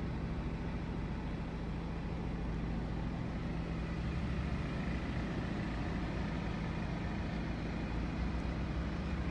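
BMW 220d's four-cylinder turbodiesel engine running steadily, a low even hum heard from inside the cabin.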